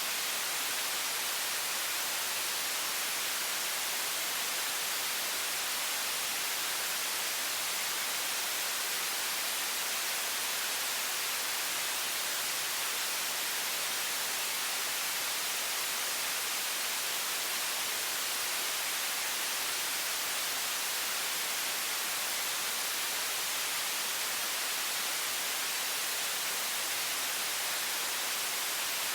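High-pressure water faucet stream running steadily, an even hiss that stays the same throughout and is strongest in the upper range with little bass.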